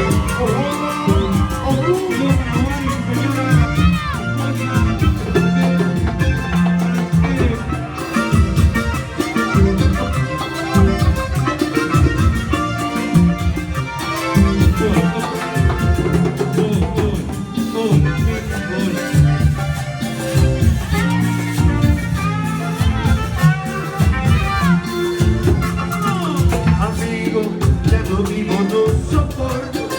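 A band playing upbeat Latin dance music with a steady beat: bass, drums and hand percussion, with singing at times.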